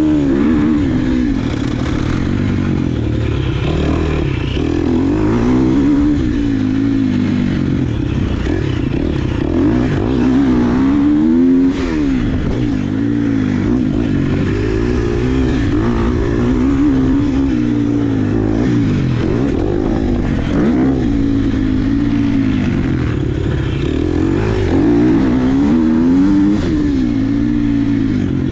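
Dirt bike engine revving up and down again and again as it is ridden, its pitch rising and falling every second or two, with a few sharp knocks.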